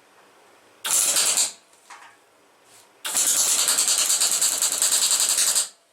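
Electric arc welding on steel: a short crackling tack weld of about half a second, then a longer steady crackle of about two and a half seconds, tacking scrap steel pieces together.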